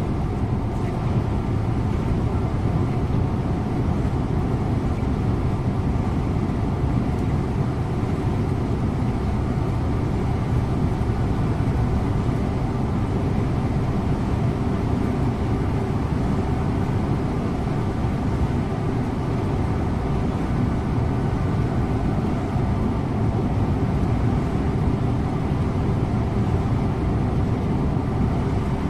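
Scania InterLink bus running at a steady speed, heard from the driver's cab: a low, even engine drone with tyre and road noise and no changes in pitch.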